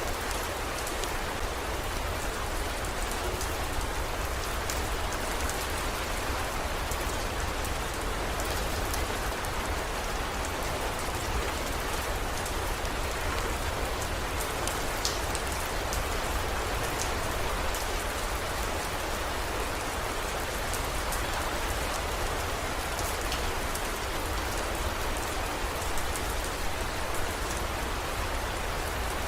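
Steady heavy rain falling, with scattered single drops ticking through the even hiss and a low steady rumble underneath.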